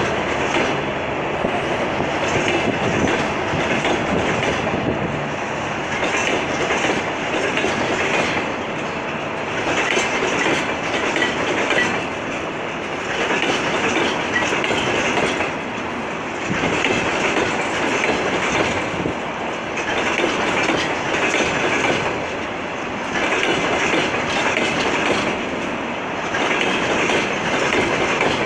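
Freight train of tank wagons rolling past, wheels clattering over the rail joints. The clatter swells and fades every few seconds.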